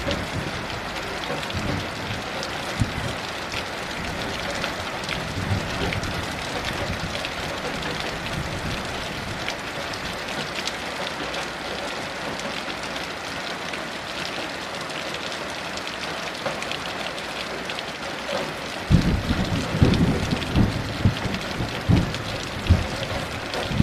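Heavy rain falling steadily, with a low, uneven rumble of distant thunder setting in about 19 seconds in and lasting to the end.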